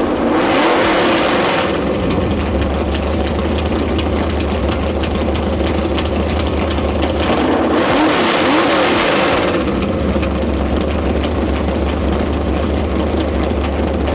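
A car's engine idling loud, revved twice: briefly about half a second in, then for about two seconds around seven seconds in.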